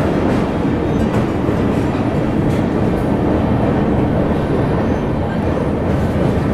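Running noise of a passenger train's LHB coaches heard from the open doorway: a steady, loud rumble and rattle of wheels on rail as the train crosses a steel truss bridge.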